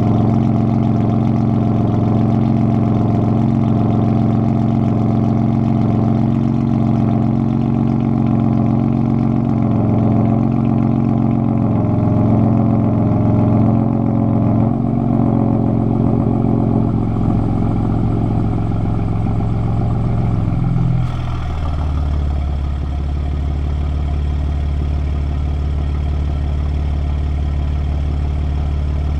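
BMW M4 F82's twin-turbo inline-six idling through a custom exhaust with downpipes, secondary cat delete and an X-pipe in place of the resonators, a steady droning note. About two-thirds of the way through, the idle drops to a lower, deeper and slightly quieter note.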